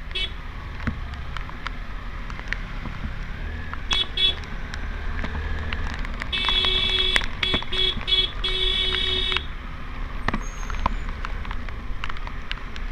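Vehicle horn beeping: two short beeps about four seconds in, then a run of repeated honks lasting about three seconds, over the steady low rumble of a motorcycle ride in the rain, with scattered sharp ticks.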